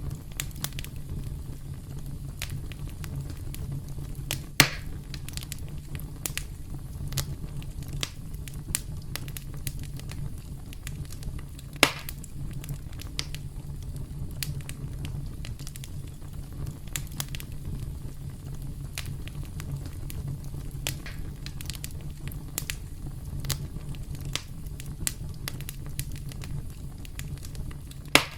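Campfire burning with a steady low rumble and frequent irregular crackles, several of them sharp, louder pops.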